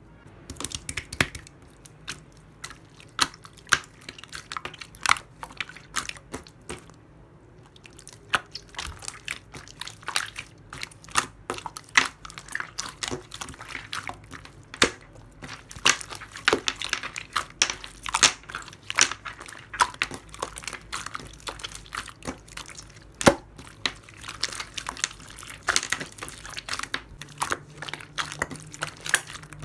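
Clear slime being squeezed and worked by hand, making a dense run of sharp wet clicks and pops.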